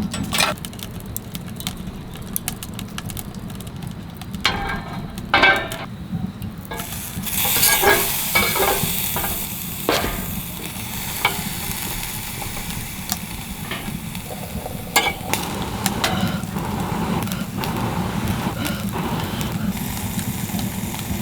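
Beef sizzling as it grills over a fire. The sizzle sets in about a third of the way in and keeps going, with scattered clicks and taps of utensils before and during it.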